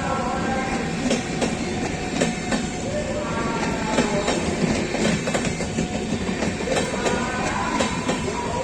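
Passenger coaches of an express train rolling past at low speed, a steady rumble with the clickety-clack of wheels over rail joints.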